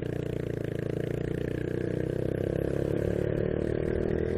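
Honda Biz 125 single-cylinder four-stroke engine running under way, its note steady in pitch and building gradually louder.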